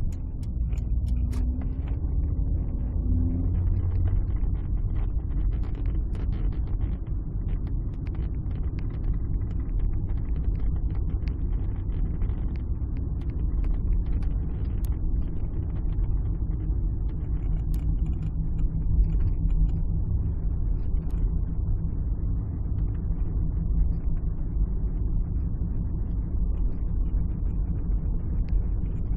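Alfa Romeo 156 on the move, heard from inside the cabin: a steady low rumble of engine and road noise with faint scattered ticks.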